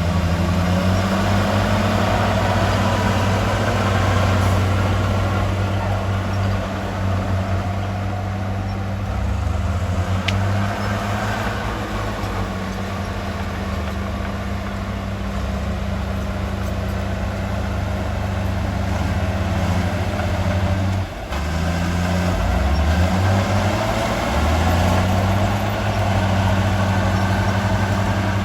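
Heavy diesel engine of earthmoving machinery running continuously, its low note shifting in pitch several times as the load changes. A brief thin high squeal comes about ten seconds in, and the engine sound drops briefly about three quarters of the way through.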